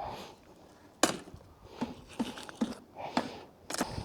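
Scrap metal pulled by a fishing magnet knocking and clanking as it is handled, in a string of sharp knocks, the loudest about a second in.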